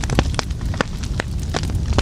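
Wood fire crackling in a fireplace: irregular sharp pops and crackles, a few each second, over a low steady rumble of burning.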